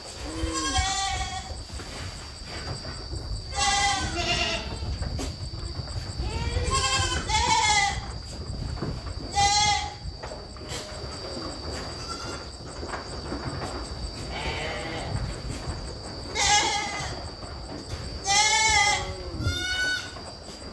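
Goats bleating, about eight wavering calls of varying pitch, one every two or three seconds.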